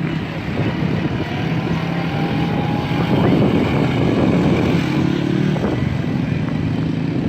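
Dirt bike engines running, with their pitch rising and falling a few times in the middle as they are revved.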